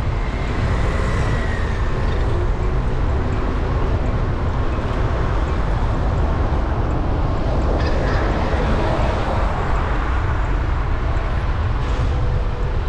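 City street and traffic noise heard from a moving bicycle, with a steady low rumble underneath and a few faint short tones.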